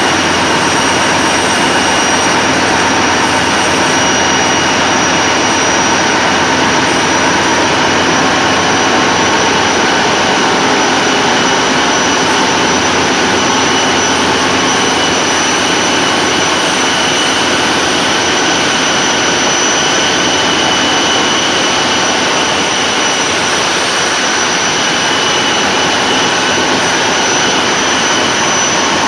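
TEP70 diesel locomotive's 16-cylinder diesel engine running steadily, with the high, steady whistle of its turbocharger over the engine noise.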